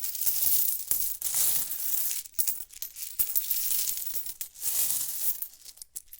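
Coins jingling and clinking in a sack as it is shaken and handled, in irregular bursts.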